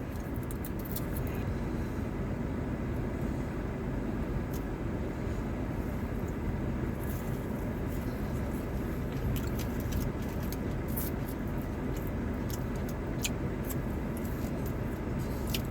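Steady low rumble with faint, scattered small clicks and taps.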